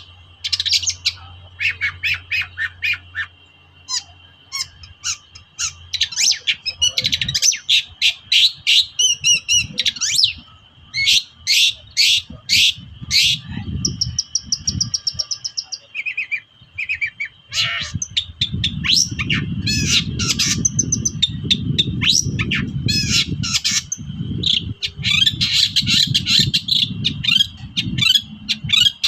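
Long-tailed shrike (cendet) singing an agitated, rapid song of short chirps and harsh squawking notes, with a steady high tone running underneath. A low rumble joins in for several seconds in the second half.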